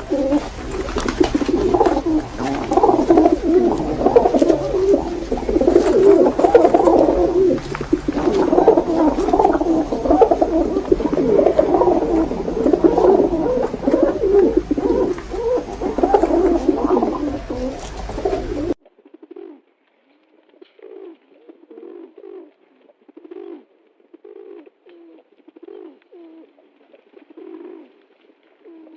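Pigeons cooing, many calls overlapping in a dense, continuous burble over a low rumble. About two-thirds of the way through, the sound cuts abruptly to much fainter, separate coos about once a second.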